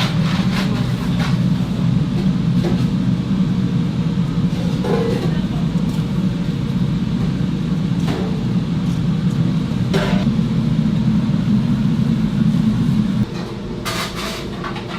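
Steady low mechanical hum with a few short clicks and knocks over it; the hum drops off abruptly about 13 seconds in.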